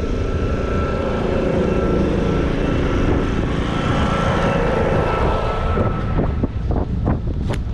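Motor traffic noise mixed with wind buffeting the microphone of a moving bicycle. A steady whine fades out about six seconds in, followed by a quick run of clicks and rattles.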